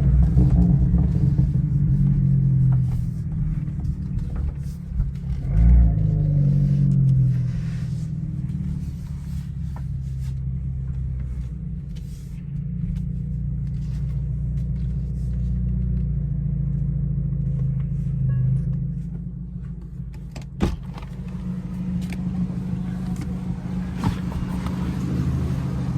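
Genesis G70 2.0T's turbocharged four-cylinder, fitted with a big turbo, on the move: the revs rise and fall about six seconds in, then the engine runs steadily at a cruise. A single sharp click about twenty seconds in.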